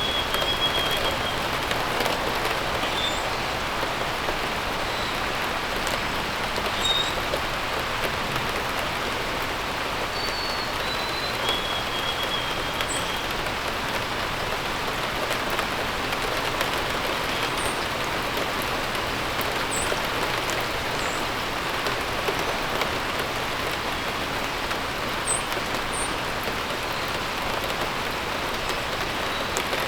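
Steady rain falling, with birds calling over it: short whistled phrases at the start and again about ten to thirteen seconds in, and brief high chirps scattered throughout.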